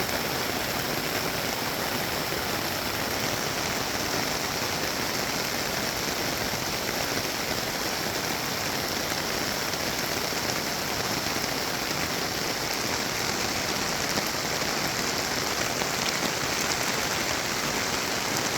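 Steady, unbroken water noise from heavy rain and an overflowing creek in flood.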